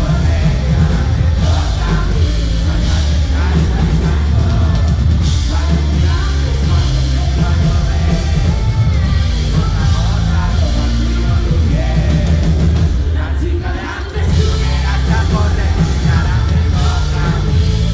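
Live band playing loud rock-style music with heavy bass and a voice singing over it; the music dips briefly about fourteen seconds in.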